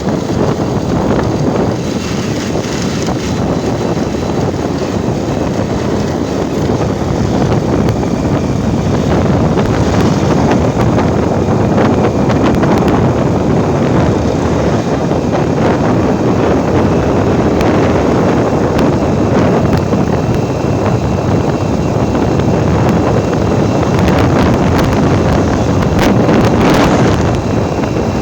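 Steady, loud rushing noise of wind buffeting the microphone, with a few sharp crackles near the end.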